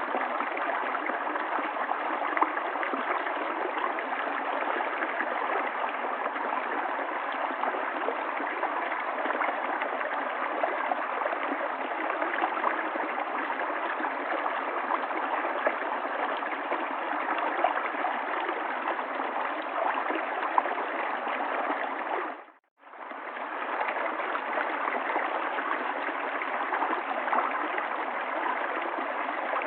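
River water flowing over stones, a steady rushing and babbling. It cuts out for about half a second roughly three quarters of the way through, then fades back in.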